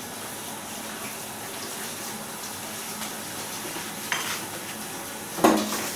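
A steady hissing background, with a few sharp clinks of hard objects knocking together, one about four seconds in and a louder one near the end.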